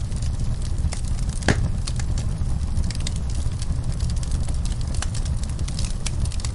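Fire in a fireplace crackling, with many scattered sharp pops over a steady low rumble of the flames; one louder pop comes about a second and a half in.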